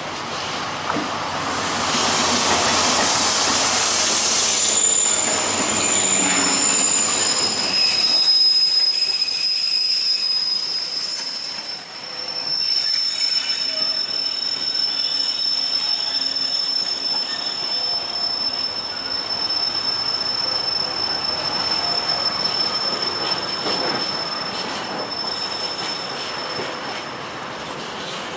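Train running close by with a loud rush of wheel and body noise for several seconds, then a long, high-pitched metallic squeal from its wheels that holds for about twenty seconds before fading.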